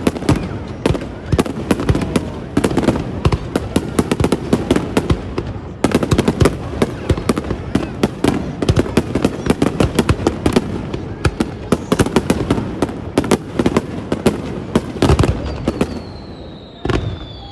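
Fireworks display: a rapid, continuous barrage of bangs and crackles from shells bursting overhead. Near the end a thin whistle falls in pitch.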